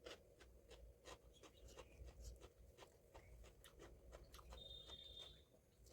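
Faint eating sounds of a person chewing: soft, irregular clicks and smacks, about three a second.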